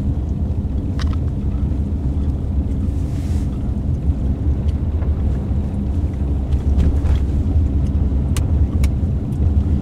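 Steady low rumble of a car heard from inside the cabin, driving on a snow-covered road, with a few faint clicks.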